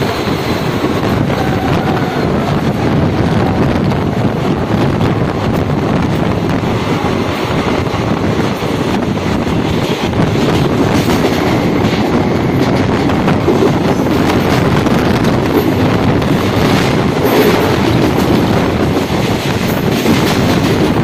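A passenger train running at speed, heard from on board: steady rumble of the wheels on the rails with some clickety-clack over rail joints, and wind buffeting the microphone.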